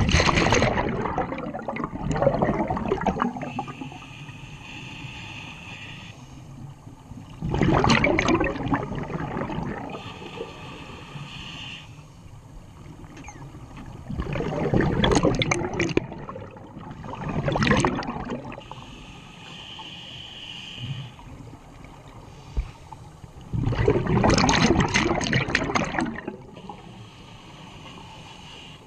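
Scuba regulator breathing underwater: a rush of exhaled bubbles every several seconds, with a quieter hiss of inhalation through the regulator between them.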